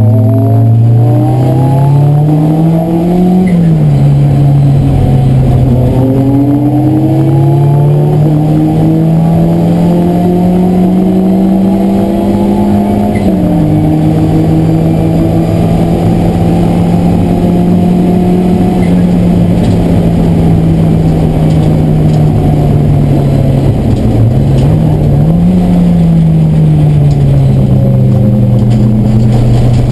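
Racing car's engine heard from inside the cabin, driven hard through the gears. The revs climb and drop sharply with an upshift about three seconds in. They then climb slowly and drop again with another shift about thirteen seconds in. After that they hold, ease off, rise briefly about twenty-five seconds in and settle lower near the end.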